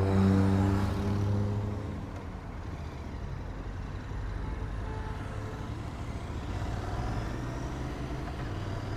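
Motorcycle engines running at low speed. One engine is louder with a held note for about the first two seconds, then fades to a steady low hum.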